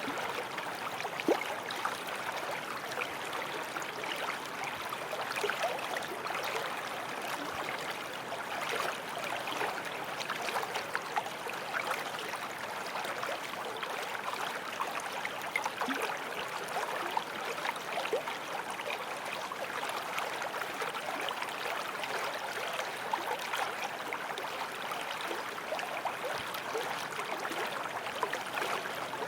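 Forest stream flowing: steady rushing water with many small splashes and gurgles throughout.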